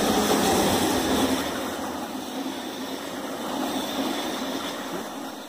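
Electric passenger train (ÖBB Railjet) running past on the mountain line, a steady rumble of wheels on rails. It is loudest at first, dies down after a second or so, swells slightly around four seconds in, then fades away.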